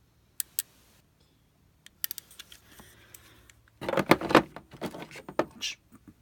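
A couple of sharp clicks, a few more, then about two seconds of rapid clattering and rattling of small hard objects being handled.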